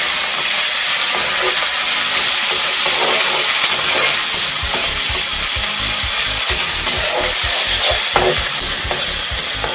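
Onion and spices frying in hot oil in a pan, sizzling steadily, while a spatula stirs them. From about halfway through there are repeated soft knocks of the stirring.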